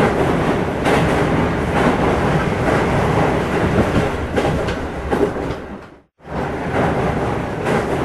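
Full-size train running past a station platform: steady rumble and rattle of wheels on the rails. The sound dies away about six seconds in, then starts again a moment later.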